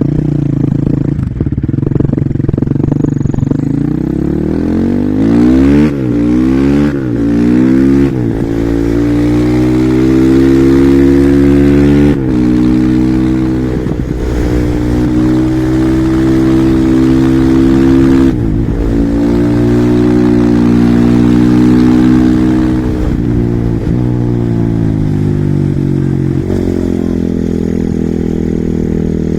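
Husqvarna SM 450R supermoto's single-cylinder four-stroke engine under full throttle: it pulls away and revs up through several quick upshifts in the first eight seconds, holds high revs, then closes and reopens the throttle twice. Near the end it comes down through a run of downshifts and settles to a lower steady speed.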